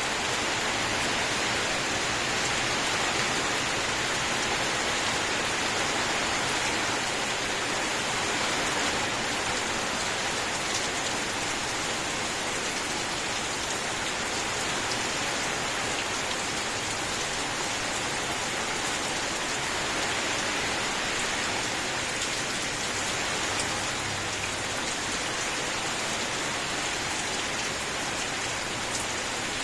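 Steady, continuous rain falling, a dense even hiss with no thunder.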